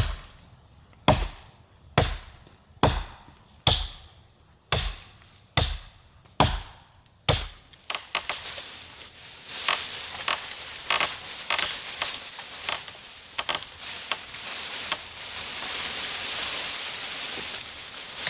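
Nine chopping blows on wood, about one a second, like an axe or hatchet cutting or splitting. After about seven seconds they stop and a steady crackling, sizzling hiss with many small pops takes over.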